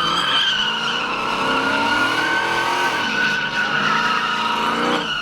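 A car sliding on pavement: its tyres squeal in a steady high tone while the engine revs rise and fall several times.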